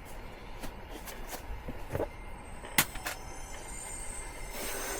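Electric space heater's fan blowing with a steady hiss, with a few light clicks and rustles from handling the bedding.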